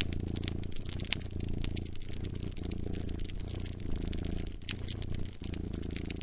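A cat purring steadily in a low rumble, with brief breaks between breaths, over a wood fire crackling with many small sharp pops.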